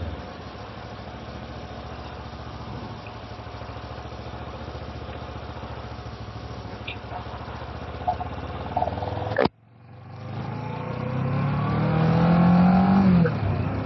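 Kawasaki ER-6f parallel-twin engine running steadily as the motorbike is ridden. It cuts off abruptly about two-thirds of the way through, then comes back and rises in pitch as the bike accelerates.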